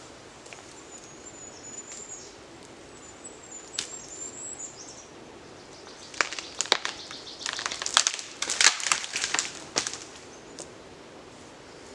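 Dead wood cracking and snapping, a run of sharp cracks from about six seconds in, loudest around eight to nine seconds: a dead tree or branch being broken. Before it, a small bird sings faintly.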